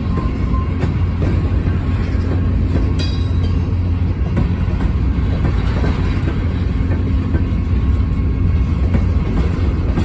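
Freight train rolling past close by: a steady low rumble of steel wheels on rail, with light clicks as the wheels cross the rail joints.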